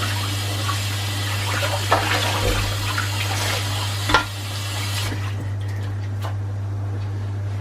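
Kitchen tap running, with broccoli being rinsed under it and a sharp knock about four seconds in. The water stops about five seconds in, leaving a steady low hum and a few light clicks.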